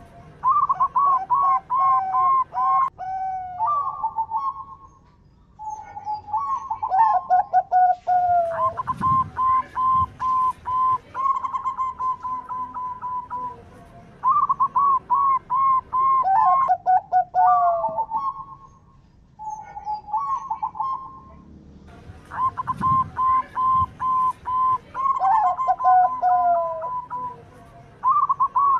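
Zebra dove (perkutut) cooing: quick runs of short, staccato notes at much the same pitch, some sliding downward, in phrases of a few seconds with short pauses between.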